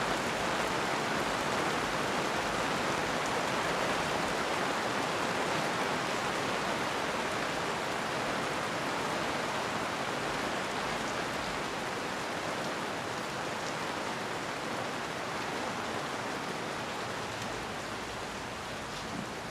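Steady rain falling, an even hiss that grows slightly quieter toward the end.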